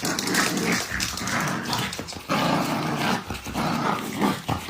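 A dog growling and grumbling in long, uneven stretches with short breaks.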